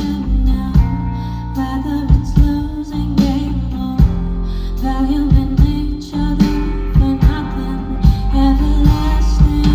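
Live rock band playing, with a female lead vocal over electric guitars, bass and drums keeping a steady beat.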